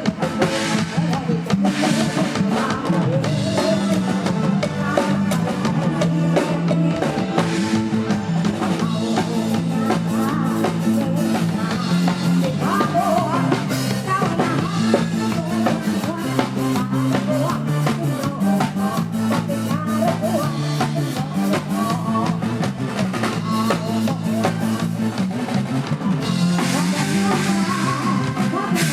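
Live band music with a drum kit and bass guitar keeping a steady beat, loud and continuous.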